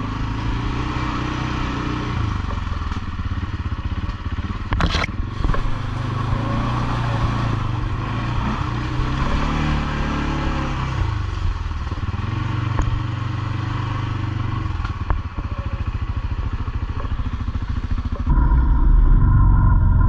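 ATV engine running under way, its pitch rising and falling with the throttle, with clatter and knocks from the machine on rough trail and one sharp knock about five seconds in. Near the end the sound changes abruptly to a louder, lower engine sound.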